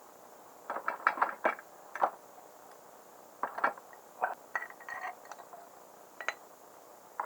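Small metal parts clicking and clinking as they are handled, in irregular clusters of a few sharp clicks.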